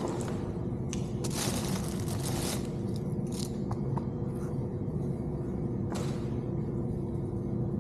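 Crinkling and scraping as parts are handled, with a few small clicks, over a steady low hum.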